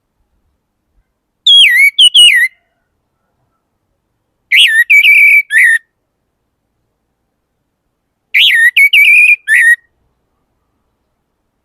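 Orange-headed thrush singing: three short phrases of clear, sweet whistled notes with falling slurs, a few seconds apart.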